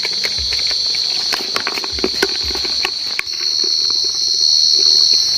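A burrowing cricket singing close by with a steady, high, continuous trill that gets louder about three seconds in, with scattered rustling and clicks close by.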